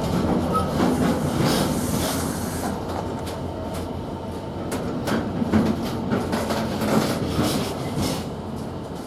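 Freight train hauled by a Class 66 diesel passing through at speed, its wagon wheels clattering over rail joints in a run of sharp clicks over a steady rumble that slowly fades near the end.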